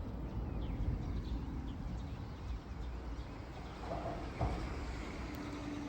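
Outdoor ambience: a steady low rumble with faint bird chirps in the first second or so, and a single thump about four and a half seconds in.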